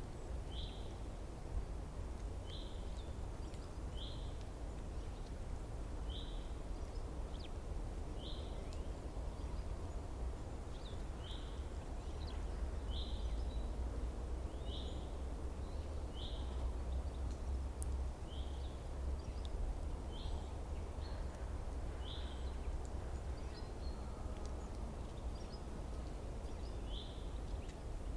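A small songbird repeating a single short, high call note about every one and a half to two seconds, with a pause of several seconds late on, over a steady low outdoor rumble.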